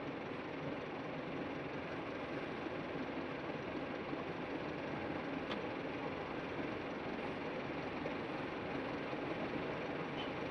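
Truck engine running steadily, heard as a constant even noise that does not change in pitch.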